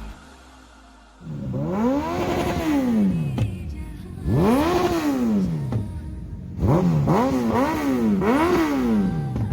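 Motorcycle engine revved hard while standing: two long revs that climb and fall back, then three quicker blips near the end.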